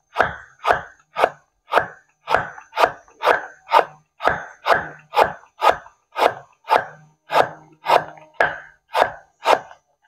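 Cleaver slicing a banana blossom thinly on a thick round wooden chopping block: steady chopping strikes about two a second. They stop just before the end.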